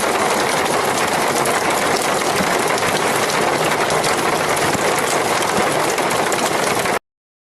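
Heavy rain falling in a steady, even hiss with no thunder, cutting off suddenly near the end.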